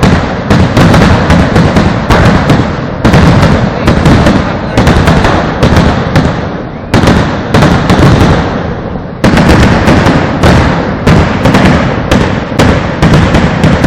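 Fireworks going off in rapid volleys of loud bangs, several a second. Near the middle comes a pause of about two seconds in which a blast's rumble dies away, then the rapid bangs start again.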